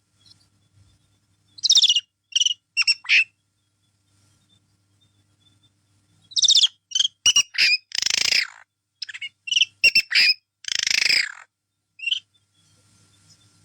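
Pet parrot calling in loud, high-pitched squawks and short chirps. One quick cluster comes about two seconds in, and a longer run from about six to eleven seconds in, with a pause between.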